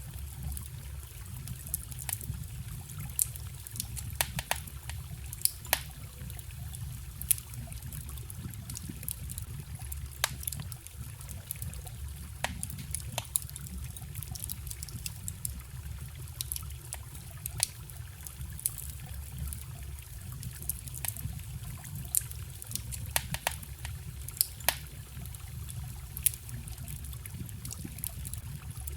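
Campfire crackling with irregular sharp pops over the steady low rush of a forest stream trickling.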